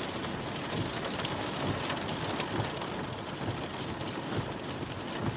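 Heavy monsoon rain on a vehicle: a steady, even hiss with scattered drop ticks.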